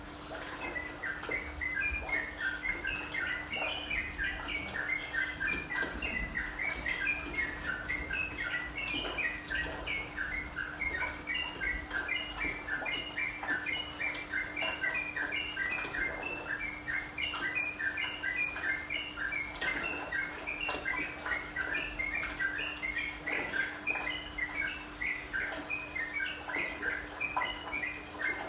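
Yellow-vented bulbul song: a dense, continuous stream of short chirping notes, over a steady low hum.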